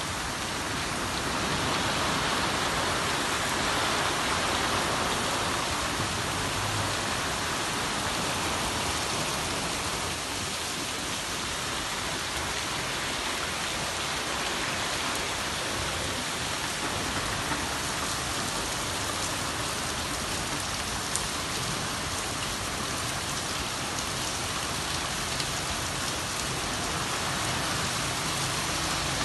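Steady rain falling on wet pavement and trees, a little louder in the first few seconds.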